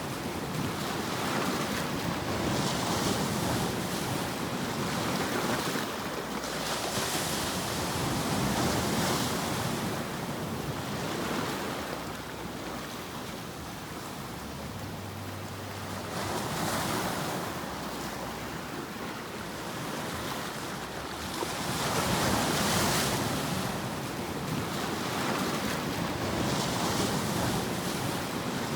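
Continuous rushing noise that swells and eases every few seconds, like surf washing onto a shore.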